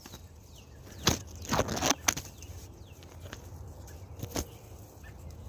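Rustling and a few sharp knocks close by, loudest between one and two seconds in and again about four seconds in, with faint, short, high bird chirps in between.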